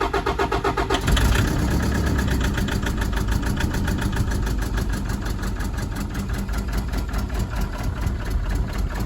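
Toyota Dyna's common-rail diesel engine cranking on the starter, then catching about a second in and running at idle on three cylinders, with one injector disconnected and blocked. The engine has a crank-no-start fault that is put down to a leaking injector letting rail pressure fall away below the 20,000 kPa it needs to fire.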